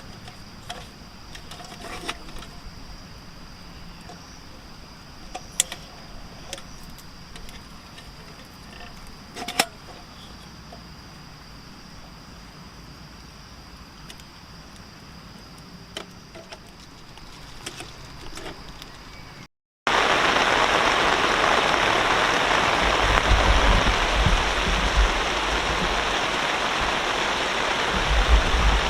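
Quiet outdoor ambience with a steady high-pitched hum and scattered small clicks, then after a sudden cut a loud, steady rushing of water with occasional low rumbles.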